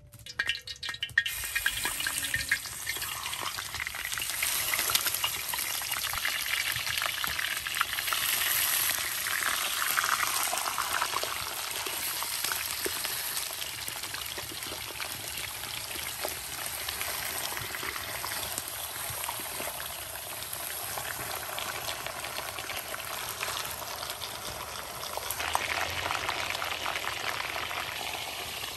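Food frying in a hot pan, a dense steady sizzle and crackle that starts about a second in.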